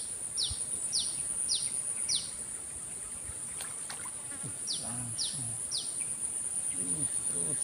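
A steady, high-pitched insect drone, with a bird repeating a short falling chirp about twice a second in two runs, the first over the opening two seconds and the second around the fifth second.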